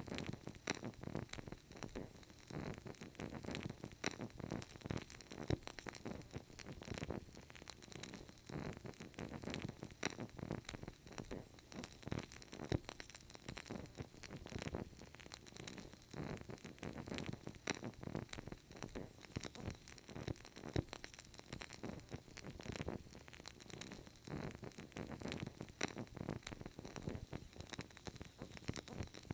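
Burning candle: dense, irregular soft crackling and ticking from the flame and wick, over a low, uneven fluttering rumble.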